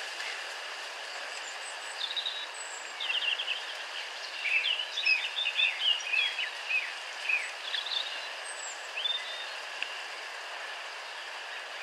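Birds chirping in quick, rising and falling notes over a steady outdoor background hiss. The chirping is busiest from about two to nine seconds in.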